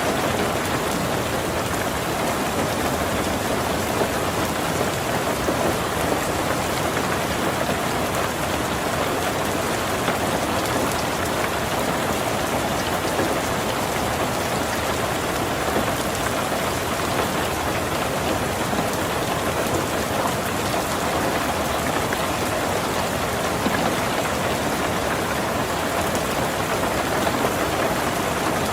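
Heavy rain drumming steadily on a tin roof, a dense, even wash of drops with no let-up.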